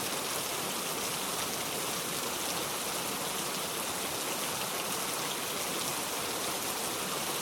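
Steady rain: an even hiss of falling water at a constant level.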